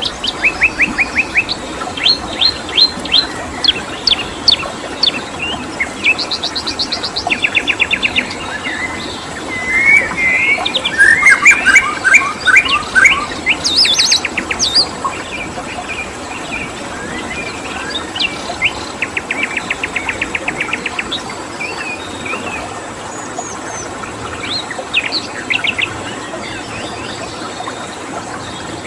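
Several wild birds singing and calling: rapid trills, quick repeated chirps and short whistled notes, busiest and loudest in the middle and thinning out near the end, over a steady hiss of running water.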